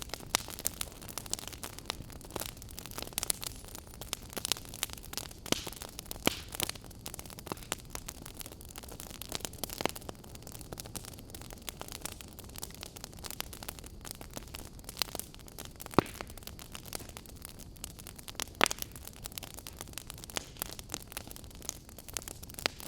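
Wood fire in a fireplace crackling: irregular sharp pops and snaps over a steady soft hiss, with a couple of louder pops in the second half.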